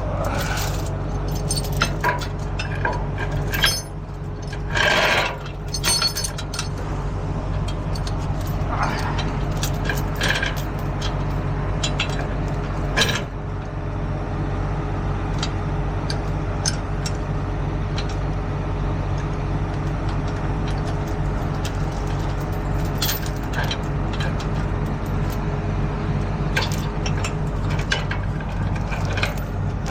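Heavy truck's diesel engine idling steadily. Scattered sharp metal clinks and clanks of tow gear being handled, most of them in the first half.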